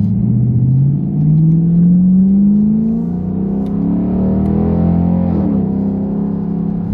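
Camaro SS V8 exhaust with a muffler delete and secondary catalytic converter delete, heard from inside the cabin while driving. The revs climb for the first few seconds, then drop back about halfway through and settle into a steady drone.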